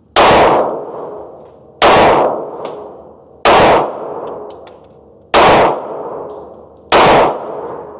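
Five handgun shots fired one after another at a steady pace, about one every one and a half to two seconds, each loud crack followed by a ringing echo that dies away.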